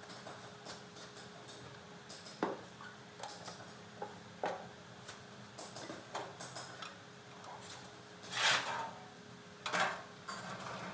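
Metal parts and hand tools clinking and knocking in irregular, scattered clicks, with two louder, longer clattering sounds about eight and ten seconds in.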